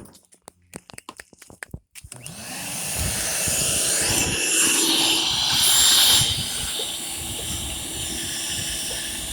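A few clicks and knocks. About two seconds in, a corded electric cleaning machine switches on, spins up and runs steadily with a loud rushing noise.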